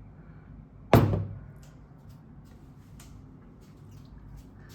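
A single sharp knock about a second in, then faint small clicks and handling noises, as a sauce container is opened and handled over a cup of pasta.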